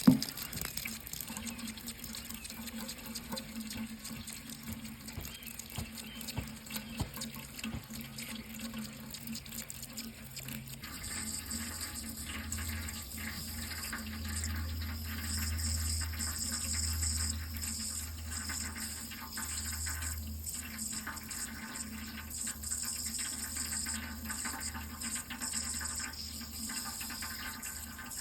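Water running steadily, an even rushing noise with no break. A sharp click comes right at the start, and a low hum joins in about a third of the way through.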